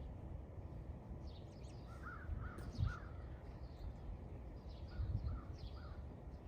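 Birds calling outdoors: two runs of short, repeated, arched calls, one about two seconds in and one about five seconds in, with fainter high chirps, over a low rumble of background noise.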